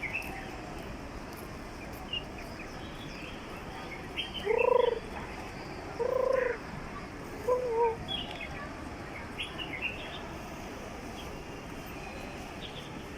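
Birds calling: three short, low, arched calls spaced about a second and a half apart, with faint high chirps scattered through the rest.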